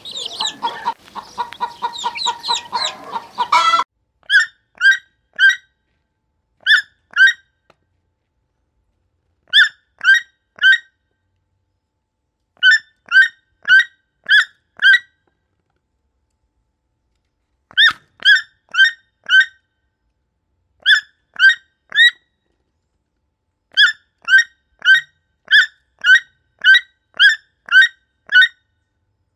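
Chickens clucking for the first few seconds. Then a different bird gives short, sharp, high calls, repeated in groups of two to seven at about two a second, with silent gaps between the groups.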